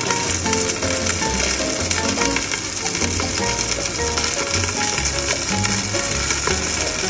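Fish frying without oil under the lid of a Saladmaster electric skillet, a steady sizzle, over background music.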